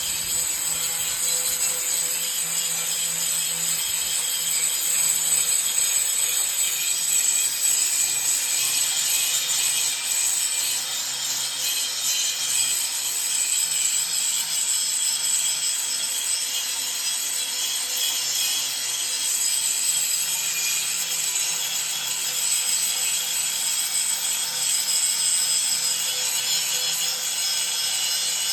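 Grinder with a green abrasive grinding wheel grinding down thick arc-weld lumps on a metal sheet: a steady, unbroken, harsh high-pitched grinding noise that holds at much the same loudness throughout.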